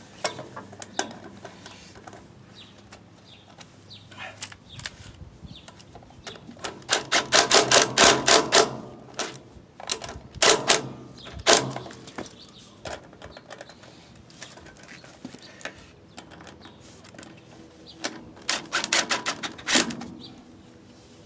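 Bursts of rapid mechanical clicking from a hand tool driving in the two screws of a small engine's air filter cover, with quieter handling clatter between the bursts.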